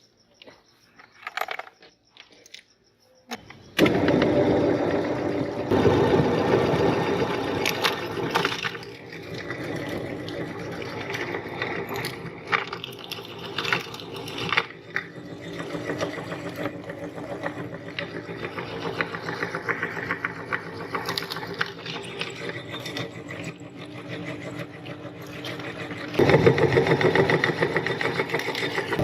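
Electric meat grinder motor starting up about four seconds in and running with a steady hum while it grinds sticks of chalk, with scattered cracks and clicks. It sounds heavier at first, eases off, then is loaded up again near the end.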